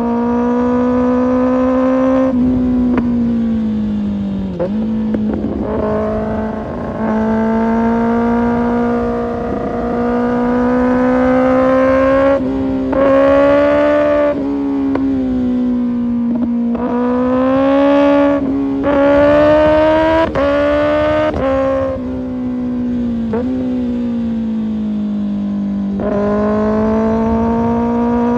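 Kawasaki Ninja ZX-6R's inline-four engine with an Arrow Pro Race exhaust, ridden hard. The engine note climbs under throttle, then drops sharply and climbs again, about ten times, as the throttle closes and gears change. Road and wind rumble sit underneath.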